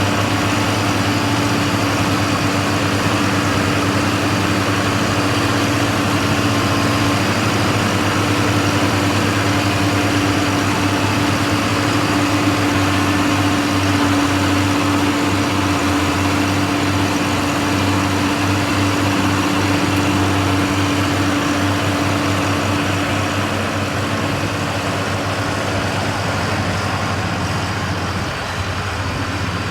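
Truck engine running steadily at a low, even pace, with a constant hum that fades out a few seconds before the end.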